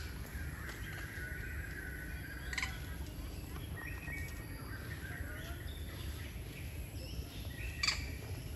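Birds chirping and calling in short scattered notes, with three sharp high clicks, one about two and a half seconds in and one near the end, over a steady low rumble.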